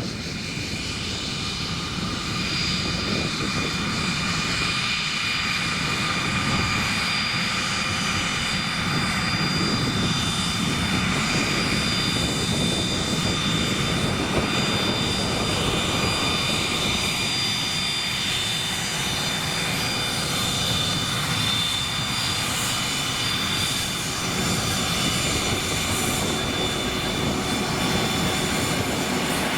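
Cessna Citation CJ3 business jet's twin Williams FJ44 turbofan engines running, a steady high whine over a broad rush of noise.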